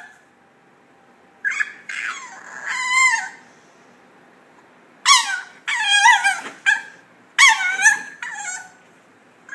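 A dog whining and yelping in high-pitched, falling cries: a pair of cries about one and a half seconds in, then a quick run of five or so more from about five seconds in.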